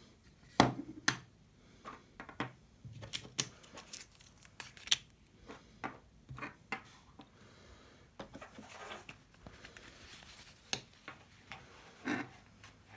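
Hands handling plastic packaging and small camera parts: irregular sharp clicks and taps, with stretches of soft rustling.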